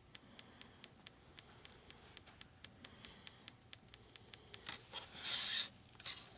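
A small paintbrush scratching as it strokes acrylic paint onto a wooden bookmark, with one louder rubbing scrape about five seconds in. A faint, even ticking of about four clicks a second runs underneath.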